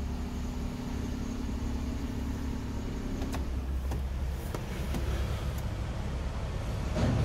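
Suzuki Alto Lapin's small 660 cc three-cylinder engine idling, a steady low hum heard from inside the cabin. A few light clicks come in the middle, and a short louder sound near the end.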